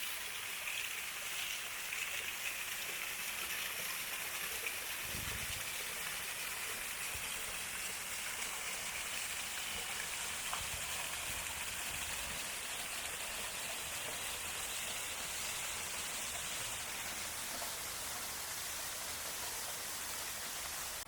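Steady, unbroken rush of cascading mountain water from a stream or waterfall in full spate.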